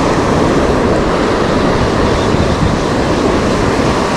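Steady rush of ocean surf on the shoreline, with a low rumble from wind on the microphone.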